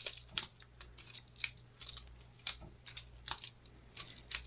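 Boker Plus balisong butterfly knife being flipped open and closed: a run of sharp metallic clicks and clacks from its handles and blade, about a dozen at uneven spacing.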